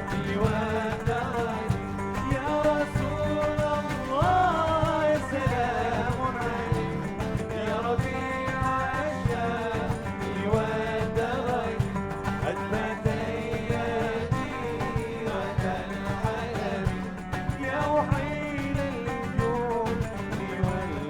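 Live band music from a devotional Arabic song: plucked strings, bass and percussion under a gliding melody line, with no words sung.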